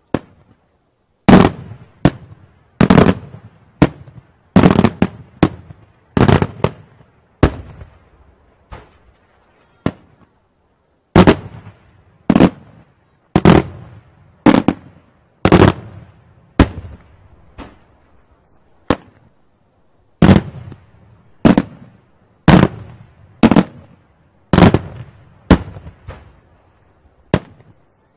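Daytime aerial firework shells bursting in a long series of sharp, loud bangs, roughly one to two a second, each with a short echoing tail. The barrage thins briefly near the middle and again about two-thirds of the way through.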